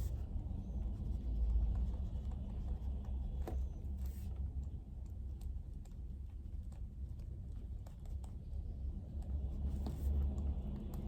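Sounds of study work at a desk: irregular light taps and clicks over a steady low rumble.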